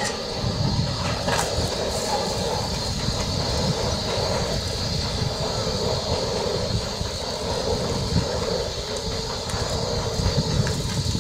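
Electric commuter train running through a station with a steady rumble of wheels and motors.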